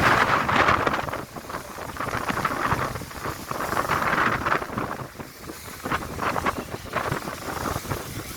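Gusty wind buffeting the microphone by the sea, swelling and easing several times.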